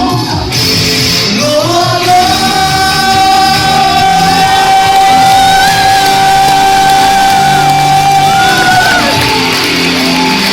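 A song sung over backing music. The singer slides up about two seconds in and holds one long high note for about seven seconds before releasing it.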